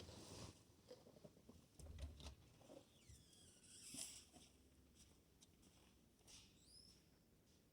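Near silence, with faint scattered clicks and a few faint high squeaks.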